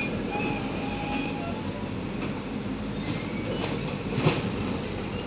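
Container freight train's wagons rolling along the track: a steady rumble with a faint thin wheel squeal in the first second or so and a few sharp clicks about three to four seconds in.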